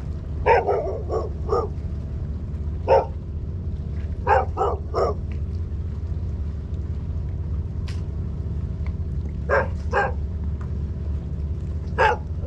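Dog barking in short sharp barks: a quick run of about four near the start, then single barks and groups of two or three spaced through the rest, over a steady low rumble.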